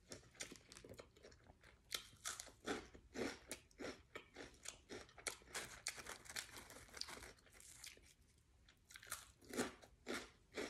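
Close-up chewing with many irregular crunches, from eating Tom's Hot Fries, crunchy fry-shaped snack sticks. The crunching eases off briefly about eight seconds in.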